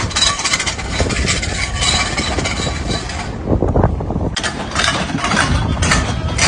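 A vehicle engine running hard under a loud, steady low rumble, with long bursts of hissing noise over it for the first three seconds and again from about four and a half seconds in.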